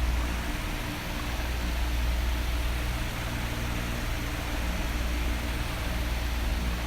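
Electric fan running: a steady rush of blown air over a low motor hum. The level dips in the first second, then holds.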